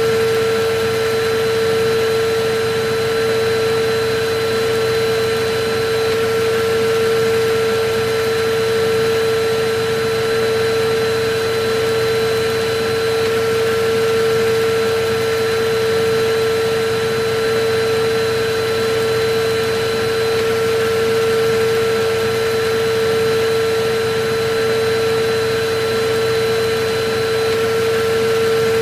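Electric vacuum cleaner running steadily: a constant rushing noise with a steady motor whine.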